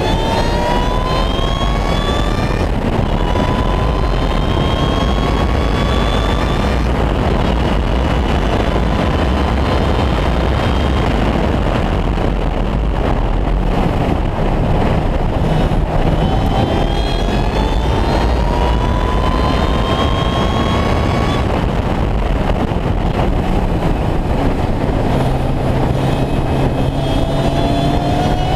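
Ariel Atom 3.5's supercharged Honda 2.0-litre four-cylinder engine pulling hard on track. Its pitch rises in several long pulls that break off and start again as it shifts up or backs off for corners. Heavy wind buffeting from the open cockpit runs underneath.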